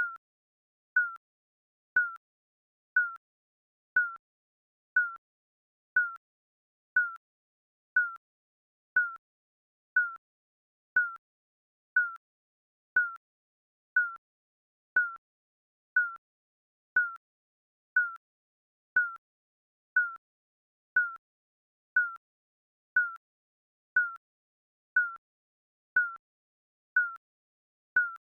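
Countdown timer beep: a short, mid-pitched electronic beep once a second, marking each second ticking down.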